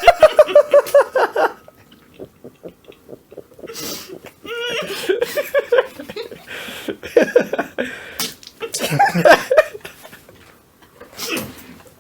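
People laughing in repeated bursts, the loudest at the start and again around the middle.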